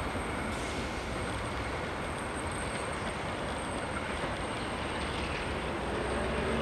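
Electric multiple-unit commuter train running past on the track and drawing away, a steady rolling noise of wheels on rails.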